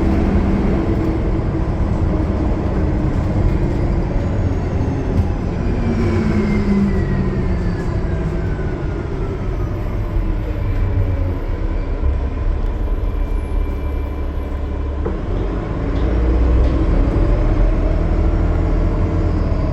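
Cummins ISL9 diesel engine of a Gillig Low Floor bus running at highway speed. A thin whine falls steadily in pitch about halfway through. The engine note rises and gets louder near the end.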